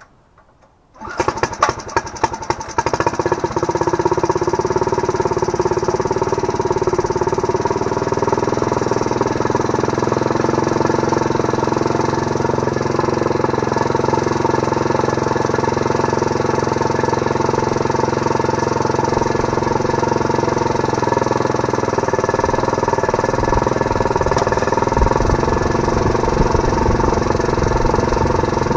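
Small Briggs & Stratton engine starting about a second in, sputtering unevenly for a couple of seconds, then running steadily as it drives a homemade bandsaw through a right-angle gearbox and pulleys.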